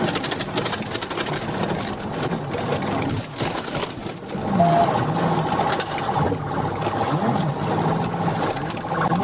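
Patrol car pursuit audio: engine and road noise. From about halfway a fast, even pulsing tone and a low tone that rises and falls join in, with one short beep.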